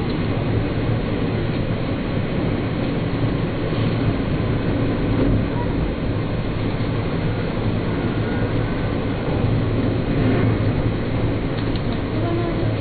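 Japanese electric commuter train running at speed, a steady low rumble of wheels on rail, heard from aboard the train.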